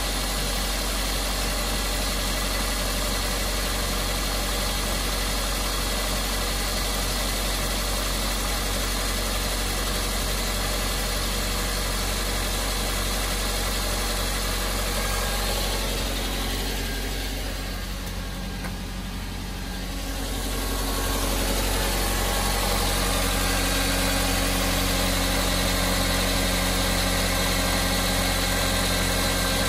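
Suzuki J20A 2.0-litre four-cylinder engine of a 2007 SX4 idling steadily. It dips briefly in level a little past halfway, then settles back.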